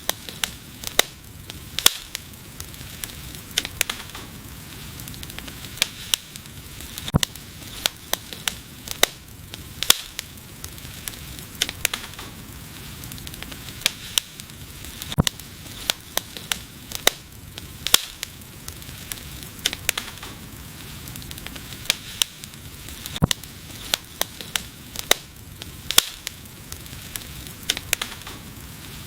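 Wood fire burning: frequent sharp crackles and pops over a steady low hiss.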